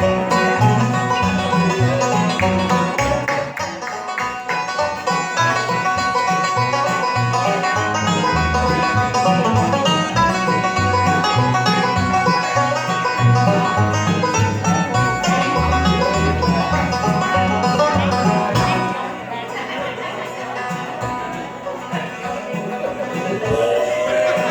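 Live band playing an instrumental break of plucked strings over a stepping bass line, with no singing. The playing drops in loudness about three-quarters of the way through.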